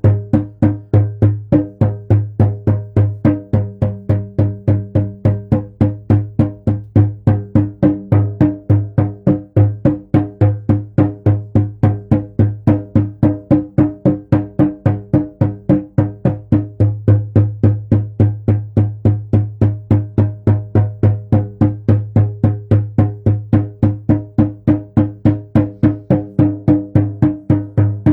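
A hand drum beaten in a steady, even rhythm of about three beats a second, each beat a deep, ringing low tone.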